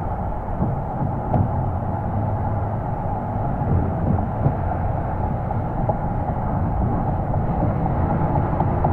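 2001 Porsche Boxster S's 3.2-litre flat-six exhaust while driving, heard close to the tailpipe: a steady low drone with road and air noise, rising slightly near the end.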